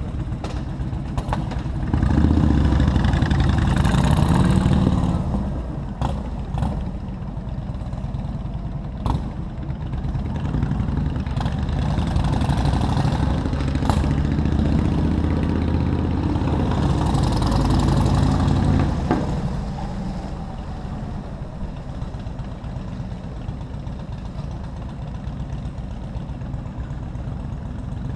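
Motorcycle engine running on the move, with two stretches where it pulls harder and gets louder, then settles back to a steady run. A few sharp clicks come through in between.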